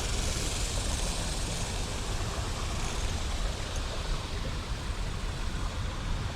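Steady rushing outdoor background noise with a heavy low rumble and no distinct events.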